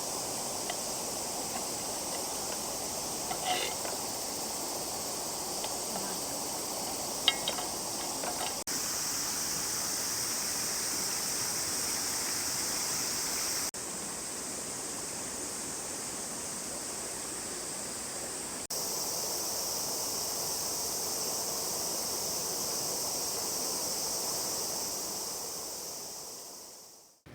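River water flowing in a steady rush with a constant high hiss, changing level abruptly a few times and fading out near the end.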